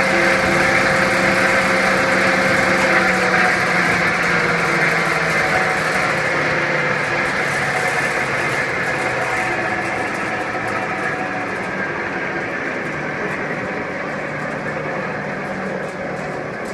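Garb-el GHV-1000 10 hp three-phase hammermill garbage disposal running empty, its hammers spinning in the open cutting chamber. It makes a steady machine hum with a whirring hiss and grows gradually quieter over the second half.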